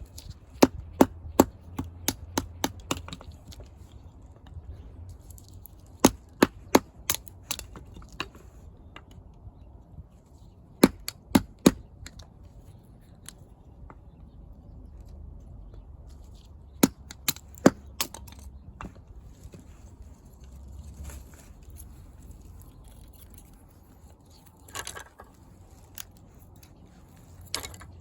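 Wood being split into kindling for a fire: sharp knocks come in quick runs of three to seven strikes, with pauses of a few seconds between the runs.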